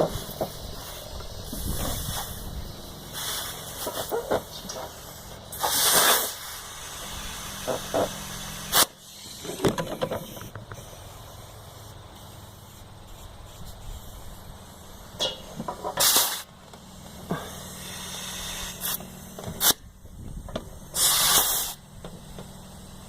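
Compressed air hissing in short bursts from an air chuck on a push valve, about three half-second blasts with sharp clicks and handling noise between them, over a steady low hum. The valve is not taking air.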